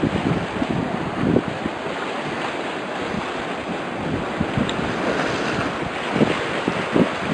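Wind buffeting the microphone over the steady wash of sea waves, with irregular gusty thumps.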